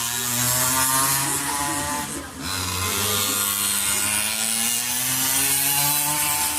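Small high-revving engine of a mini GP racing motorcycle, running hard with a buzzing tone; it drops off briefly about two seconds in, then the pitch climbs again as it picks up.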